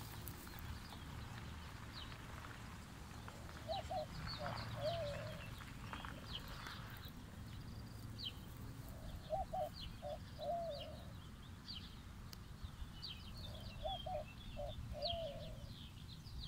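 Birds calling: one bird repeats a short, low phrase of a few notes about every five seconds, three times, over scattered brief high chirps from small birds.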